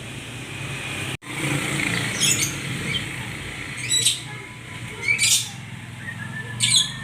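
Murai songbird giving four loud, short, shrill calls that sweep up in pitch, roughly a second and a half apart, over a steady low background rumble. The sound drops out briefly about a second in.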